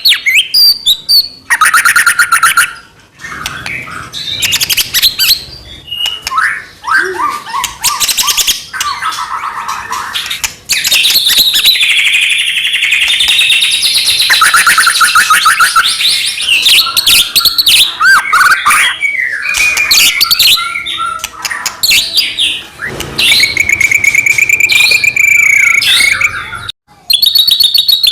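White-rumped shama (murai batu) singing continuously and loudly: a varied song of whistles, rapid trills and fast repeated buzzy notes, with a couple of brief pauses.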